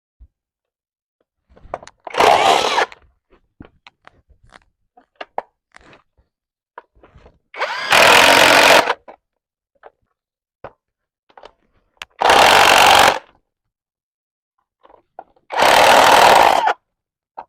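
A power tool run in four short bursts of about a second each, with small clicks and knocks of handling between them.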